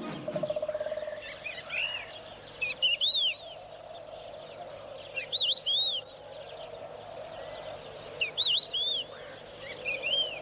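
A bird calling in short groups of three or four shrill, arched notes, four times over several seconds, against a faint steady background of outdoor sound. A brief rapid rattling pulse sounds just after the start.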